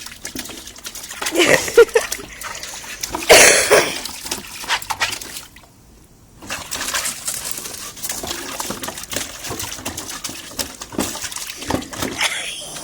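A pet dog panting and snuffling close to the microphone, with a few louder wet bursts early on and a short quiet gap about six seconds in.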